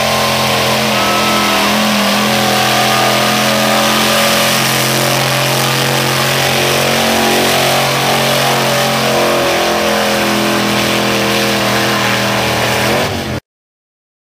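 Modified pulling truck's engine held at high revs under full throttle, its pitch nearly steady with slight wavering, until the sound cuts off abruptly near the end.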